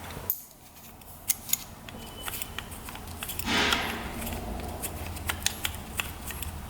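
Small metallic clicks and ticks of hand tools and small carburetor parts being handled while the carburetor is taken apart, with one brief louder rustling noise about three and a half seconds in.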